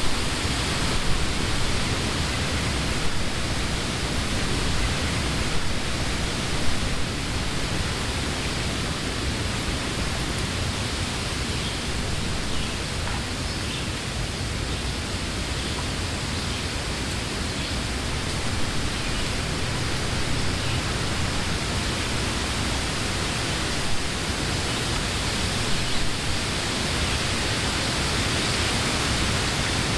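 Summer wind blowing through trees, a steady rush of moving leaves that eases a little midway and builds again near the end, with a few brief louder gusts.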